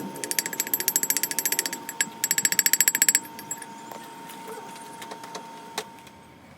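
Ratchet wrench clicking rapidly, about ten clicks a second, in two runs with a short break, then stopping about three seconds in. A single sharp knock comes near the end.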